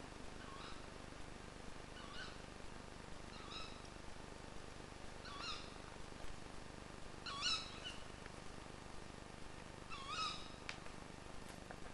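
A bird calling faintly over a low hiss: a short, sharp call repeated about six times, one to two seconds apart, clearest about seven and ten seconds in.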